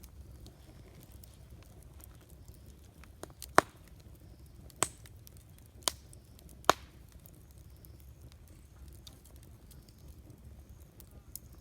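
Wood campfire burning with a low steady rumble and faint crackling. In the middle, four sharp, loud pops follow about a second apart as the burning wood snaps.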